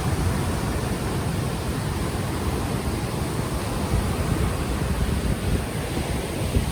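Ocean waves washing ashore in a steady wash of surf, mixed with wind buffeting an unshielded microphone as a low rumble.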